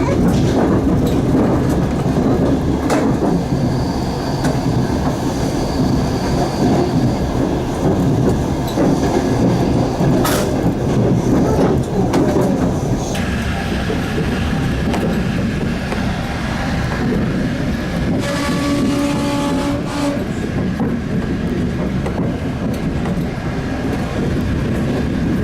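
Passenger train running along the track, heard through an open carriage window: steady wheel-and-rail rumble with occasional clicks over rail joints. About eighteen seconds in, a train horn sounds for about two seconds.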